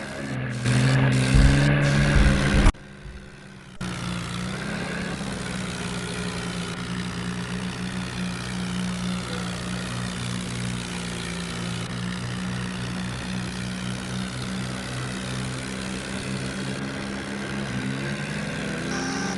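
Tractor engine running steadily. It is louder for the first few seconds, drops out suddenly for about a second, then carries on at an even pitch.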